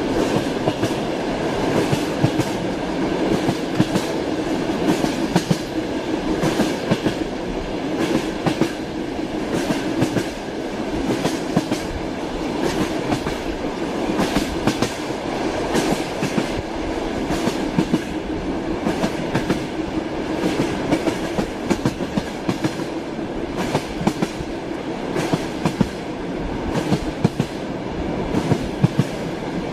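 Train running steadily, its wheels clattering over the rail joints in a continuous run of sharp clicks over a steady rumble.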